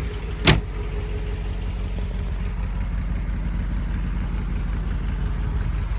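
1969 MGB GT's 1.8-litre four-cylinder B-series engine idling steadily, its idle speed in need of a little adjustment. One sharp clunk about half a second in.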